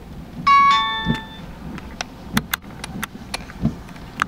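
An electronic chime rings once about half a second in, a bright multi-tone ding that fades over about a second. It is followed by a run of sharp clicks and soft, regular low thumps about every second and a quarter.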